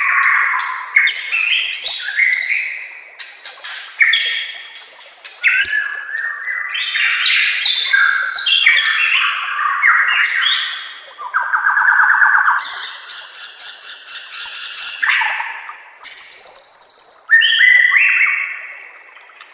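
White-rumped shama singing a loud, varied song: whistled phrases, rising glides and fast rattling trills, delivered in bursts of a second or two with short gaps between them.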